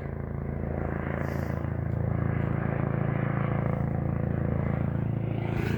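Police helicopter passing close overhead, its rotor chopping steadily over the engine. It grows louder over the first two seconds, then holds.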